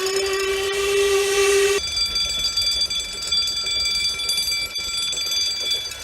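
Level crossing audible warning alarm sounding continuously. A steady lower tone with a hiss cuts off abruptly about two seconds in and is replaced by a steady, higher-pitched electronic alarm tone.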